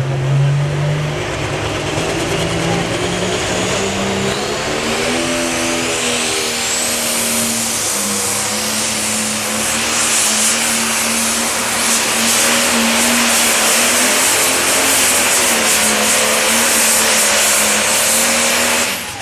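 Super stock pulling tractor's turbocharged engine at full power during a pull: the engine note climbs over the first five seconds or so, then holds high and steady with a high turbo whine above it, and cuts off suddenly at the very end.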